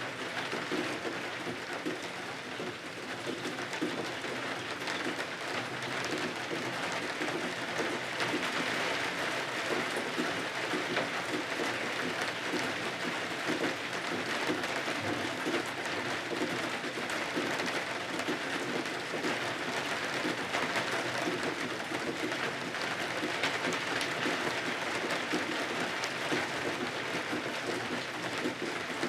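Steady rain falling: a dense, even hiss of many small drop hits with no pauses.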